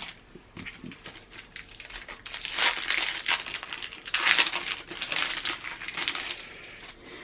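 Trading card pack wrapper crinkling and rustling in the hands, in several stretches, loudest around the middle.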